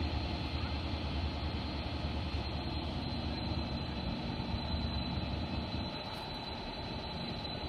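Diesel train locomotive running steadily with a low rumble and a thin, steady high whine, easing off slightly near the end.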